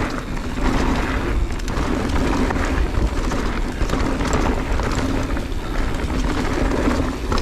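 Mountain bike descending a rocky downhill trail at speed: wind rushing over the microphone with the tyres rolling and the bike rattling over rocks.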